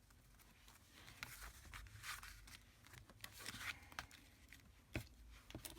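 Faint rustling and handling of paper and card, with a few light taps and clicks.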